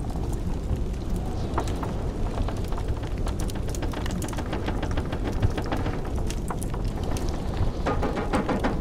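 Wood fire crackling with scattered sharp pops over a steady low rumble of blizzard wind; the crackling grows denser near the end.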